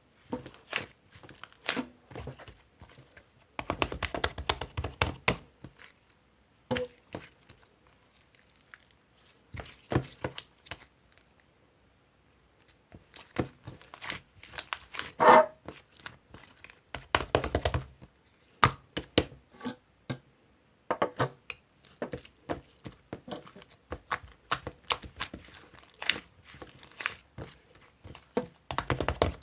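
Close handling noises: crinkling and tearing with scattered taps and knocks, coming in irregular clusters with short pauses between them.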